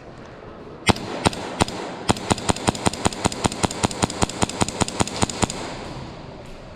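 Airsoft gun firing: three single shots about a second in, then a fast, even string of shots at about five a second that stops suddenly after roughly three and a half seconds.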